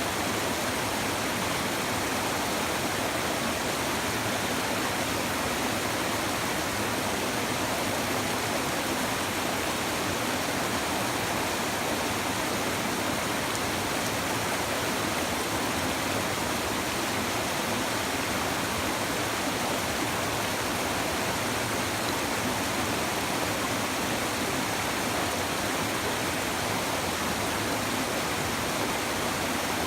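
Babbling river water flowing steadily: an even, unbroken rushing with no change in level.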